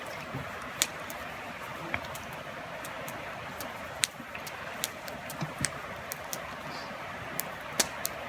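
Wood campfire crackling: sharp pops at irregular intervals, about one a second, over a steady hiss.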